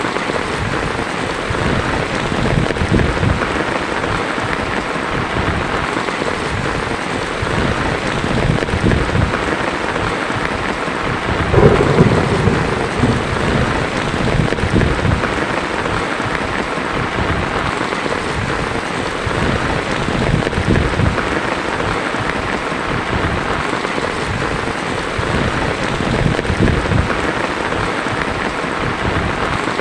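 Heavy rain falling on a tin roof, a steady hiss with low rumbles of thunder running under it. A louder roll of thunder comes about twelve seconds in.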